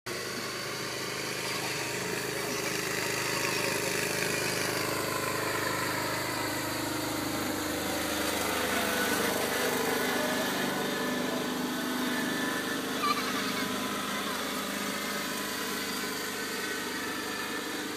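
A tractor and a Barbie ride-on car running during a race, their motors humming steadily with small shifts in pitch. There is one short knock about thirteen seconds in.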